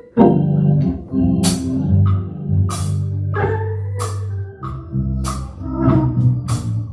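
Live jazz band playing: sustained chords over a low bass line, with sharp drum and cymbal hits about once a second.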